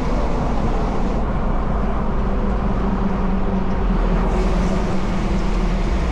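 Steady drive noise inside a Nissan Xterra's cabin on a wet road: a low engine and road drone under a constant hiss of tyres running through standing water and spray.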